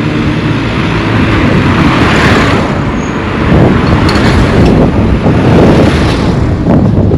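A motor vehicle passing close by on the road, its engine and tyre noise swelling to a peak about two seconds in and then fading, over a steady low rumble of wind on the microphone.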